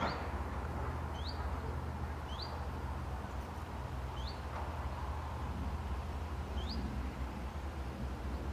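A small bird giving a single short rising call, repeated about five times at uneven intervals, over a steady low background rumble.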